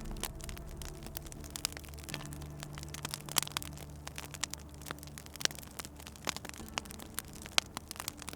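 Wood fire crackling, with irregular sharp pops and snaps, a few louder than the rest, over a low steady hum.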